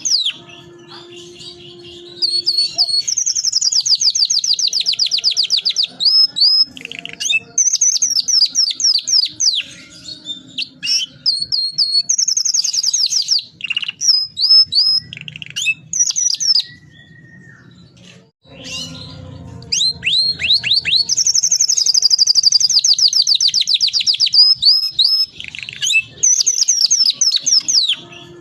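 Domestic canary singing energetically in long, fast rolling trills, phrase after phrase of a few seconds each with brief pauses between.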